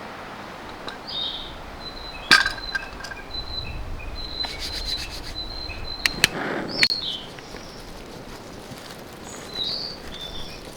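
Wild birds calling with short high notes and a longer held whistle. A few sharp clicks come through, the loudest about two seconds in, and a brief scraping rustle follows about six seconds in.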